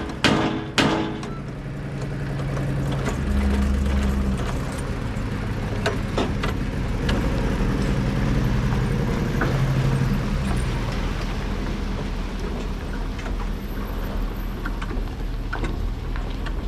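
A few sharp knocks at the start, then a vehicle engine running steadily, its note rising and falling a couple of times.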